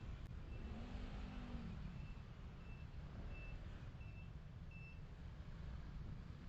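Low road and engine rumble of a car driving, picked up by a dashcam. Over it comes a series of short, high, single-pitched beeps, about three every two seconds, that stop about five seconds in.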